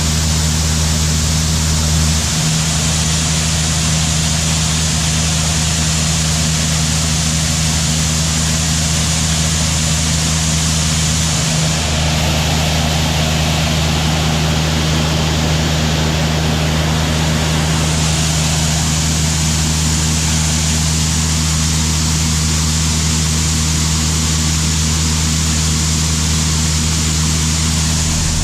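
Heavy diesel farm machinery engine running steadily at constant speed: a deep, even drone with a broad rushing mechanical noise over it.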